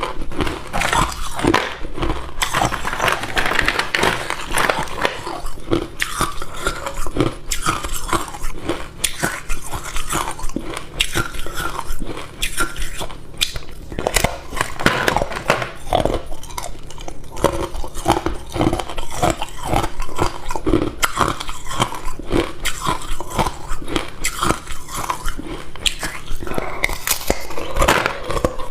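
Close-miked crunching and chewing of hard ice cubes: a continuous run of sharp, brittle cracks and crackles as the ice is bitten and ground between the teeth.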